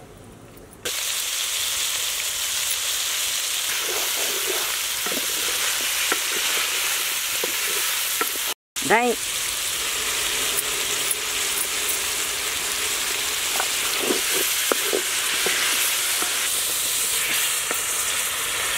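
Chicken pieces in green masala sizzling in a large metal pot while a spatula stirs through them. A steady sizzle starts about a second in, with one brief dropout near the middle.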